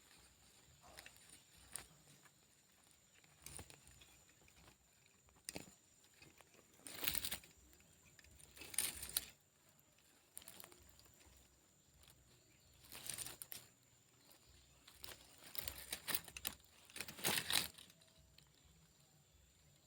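Leaves and twigs rustling and scraping in several separate bursts, each lasting about a second, the loudest in the second half, as the camera pole is pushed among the branches at a tree's tip.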